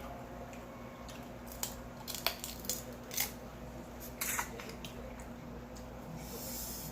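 King crab shell being cracked and picked apart by hand: a scatter of short sharp cracks and clicks, a few in quick succession around the middle, with a brief rustle near the end.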